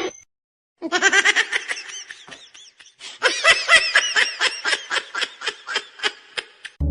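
Someone laughing in quick, high-pitched bursts, in two runs: the first starts about a second in, and a second, louder run starts about three seconds in and stops near the end.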